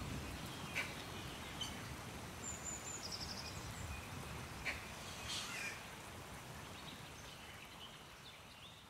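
Faint background ambience with a few soft clicks and brief high bird chirps, fading out toward the end.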